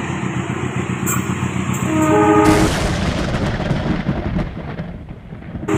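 A train runs past with a steady rumble, and its horn starts briefly about two seconds in. The horn is cut off by a sudden loud thunderclap from a nearby lightning strike, which rolls and fades away over about three seconds.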